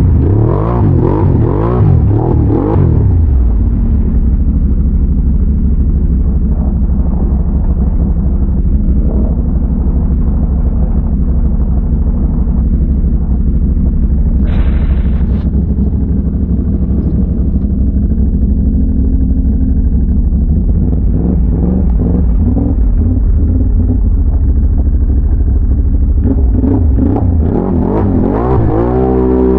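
Can-Am Renegade ATV's big-bore V-twin engine revving up and down for the first few seconds, then running at a steady pace, with the revs changing again near the end.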